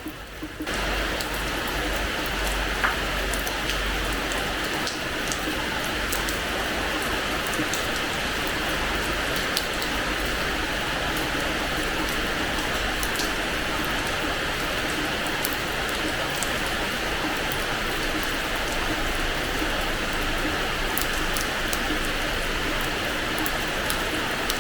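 Rain falling on a terrace floor: a steady, even hiss of rain with scattered sharp drop ticks. It thickens suddenly within the first second, out of lighter separate drips.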